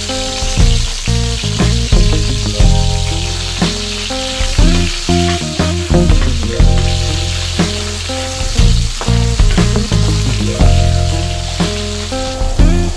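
Sliced red onion sizzling in hot oil in a wok, stirred now and then with a spatula, over background music.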